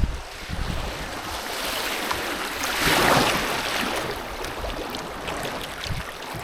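Rushing river water, a steady hiss that swells to its loudest about three seconds in and then eases off.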